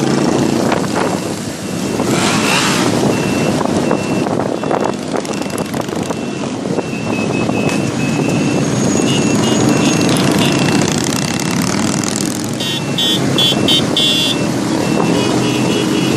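Many motorcycle engines running and revving as they ride by, with a rising rev about two seconds in. Near the end comes a string of short, high beeps.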